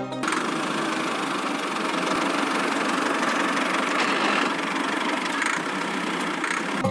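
A small motor running steadily, a noisy whir with little low rumble, starting and stopping abruptly.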